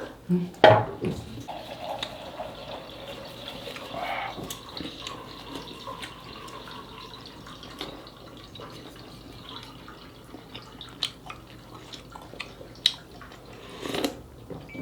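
Water poured into a cup for several seconds, the pitch of the pour rising as the cup fills. A sharp knock sounds just before the pour, with a few small clinks later on.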